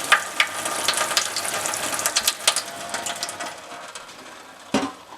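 Water splashing onto a stainless-steel exhaust tip in a kitchen sink, with rapid small clicks and rattles, dying away about four seconds in; a single knock near the end.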